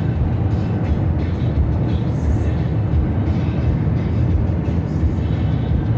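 Steady low rumble of road and engine noise inside a vehicle cruising at highway speed.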